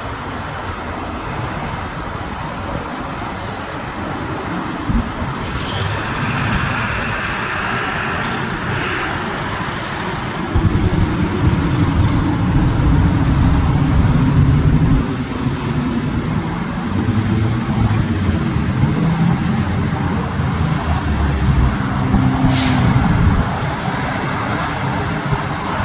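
Learjet 35A's turbofan jet engines running: a whine rises briefly, then a louder low rumble sets in about ten seconds in and eases near the end.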